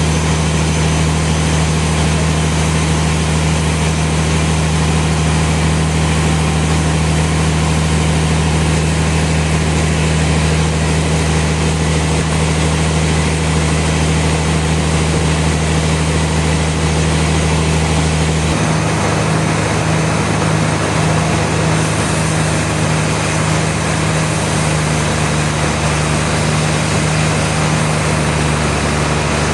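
Sawmill machinery running with a steady low hum over a broad mechanical noise; the hum changes abruptly about two-thirds of the way through.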